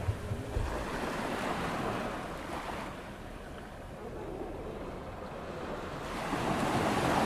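Ocean waves breaking and washing up a sandy beach on an incoming tide, with wind buffeting the microphone near the start. The surf eases off through the middle, then builds again as the next wave swells near the end.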